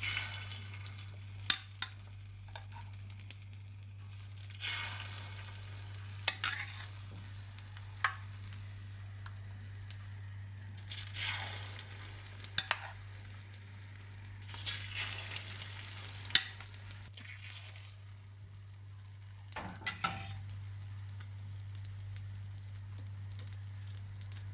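Beaten egg mixture spooned a little at a time into the hot oiled cups of a kuzhi paniyaram pan, each pour sizzling in a separate burst, with sharp clicks of the spoon against the pan. A steady low hum runs underneath.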